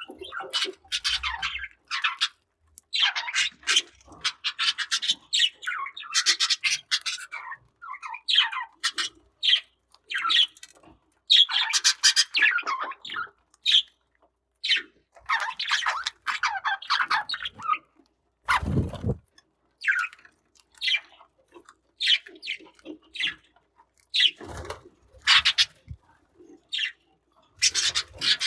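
Budgerigars chirping and chattering in quick runs of short, high calls, with one dull thump about two-thirds of the way through.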